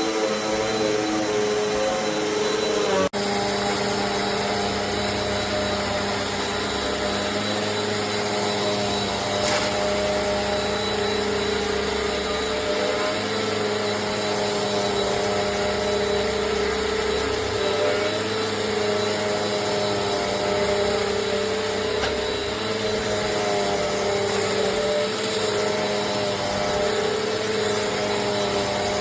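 Amazon Basics upright bagless vacuum cleaner running steadily with a motor whine. There is a sudden break about three seconds in, and after it the pitch holds steadier.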